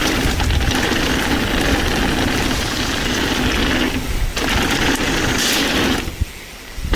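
Mountain bike clattering and rattling at speed down a rough trail, with a steady rush of noise. The noise drops away suddenly about six seconds in for most of a second.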